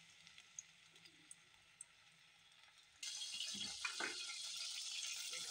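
Quiet at first with a few faint ticks. About three seconds in, sizzling starts abruptly and keeps on: a wet paste of ground ginger, garlic, onion and green chilli frying in hot oil in a metal pot, with a couple of soft knocks.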